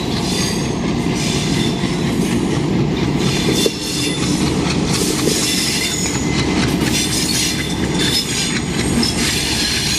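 Passenger train rolling past on a curve, the wheels clattering steadily over the rails with thin, high wheel squeal.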